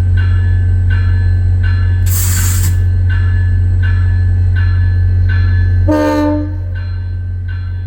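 Diesel passenger locomotive running with its bell ringing steadily, about one and a half strikes a second. A short burst of air hiss comes about two seconds in, and a brief horn toot about six seconds in, after which the engine rumble drops.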